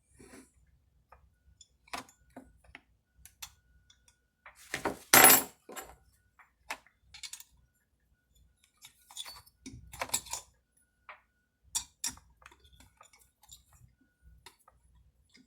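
Small metal parts and hand tools clinking and clattering during chainsaw reassembly. The clicks are scattered and irregular, with the loudest clatter about five seconds in.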